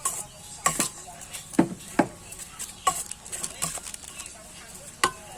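Irregular clicks and knocks of kitchen utensils against dishes and a board, with two heavier thuds about one and a half and two seconds in.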